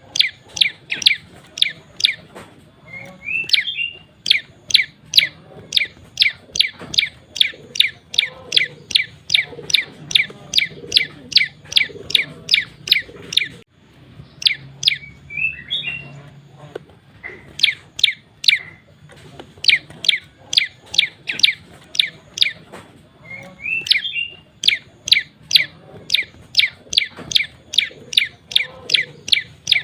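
Male prenjak lumut singing a long, rapid series of sharp chip notes, about two or three a second, broken three times by a brief twittering phrase.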